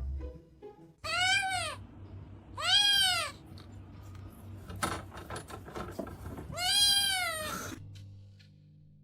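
A cat meowing three times, each call loud and arching up then down in pitch, with a few short knocks between the calls.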